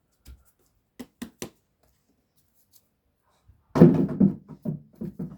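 A basketball hits the ground hard and bounces several times, the bounces coming quicker as it settles, each with a short ringing thud. A few light taps come about a second in.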